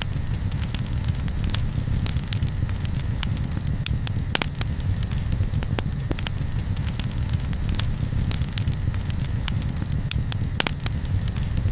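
Campfire crackling, with frequent irregular sharp pops over a steady low rumble. A faint high chirp, like an insect's, recurs every second or so.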